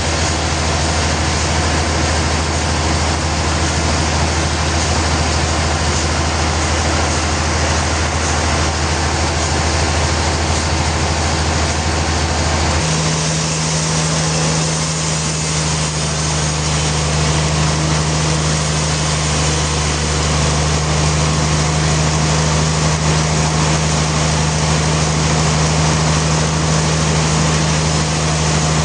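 Sawmill machinery running steadily with a loud low hum, whose pitch steps up to a higher steady tone about halfway through.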